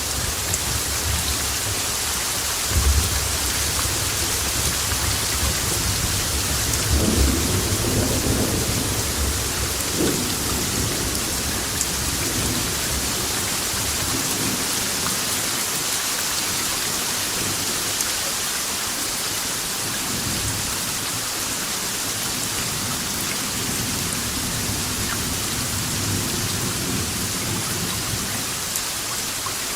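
Steady rain hissing throughout, with thunder rumbling low in the first ten seconds or so, swelling twice, then dying away to faint distant rolls.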